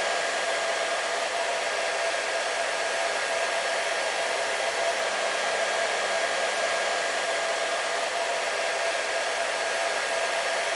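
Hair dryer running continuously: a steady rushing blow of air with a constant hum from the motor and fan, unchanging throughout.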